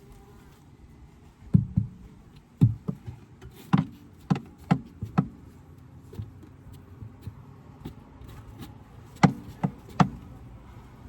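Wooden beehive parts being handled: a series of sharp knocks and taps, about eight in the first half and three more near the end.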